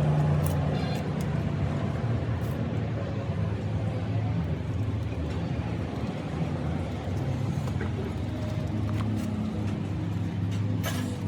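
An engine or motor running steadily with a low hum, with a few clicks or knocks, the clearest one just before the end.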